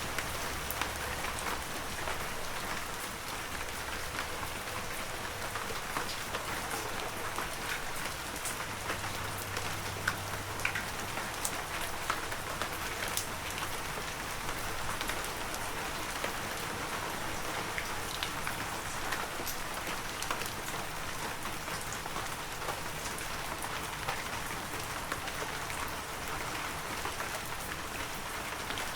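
Heavy rain falling steadily: an even hiss with many sharp, separate drop ticks scattered throughout.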